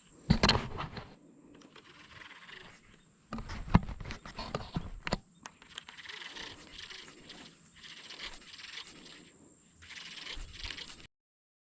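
Close handling noise of fishing gear on a kayak: irregular knocks and sharp clacks with rustling between, loudest about half a second in and again around four seconds in. The sound cuts off abruptly near the end.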